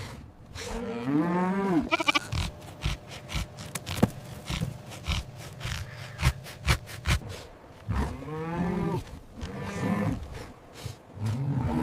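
Farm animals calling: drawn-out, wavering bleat- or moo-like calls about a second in and again several times from about eight seconds, with a run of sharp clicks and knocks between them.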